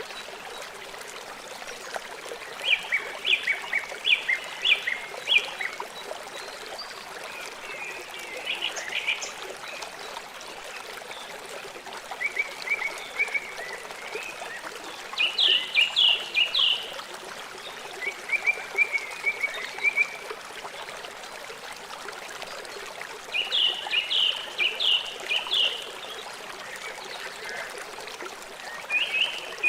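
River water flowing steadily, with a bird calling over it again and again in short series of quick, high, repeated notes every few seconds.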